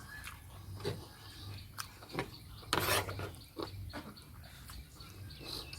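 A person chewing food close to the microphone, with small wet mouth clicks scattered through and a short, denser crunchy burst about three seconds in.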